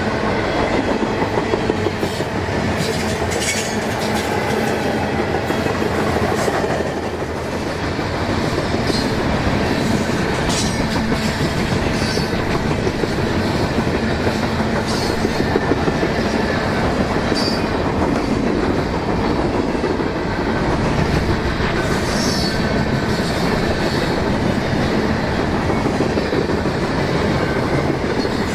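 Freight train cars rolling past, a steady wheel-on-rail rumble and clatter, with short high wheel squeals every second or two.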